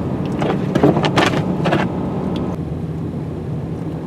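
Ram 3500 dually's diesel engine pulling a steady drone in third gear on a steep downhill, heard from inside the cab, with the exhaust brake holding the truck back. A few short rushing noises come in quick succession between about half a second and two seconds in, and a faint whine stops about halfway through.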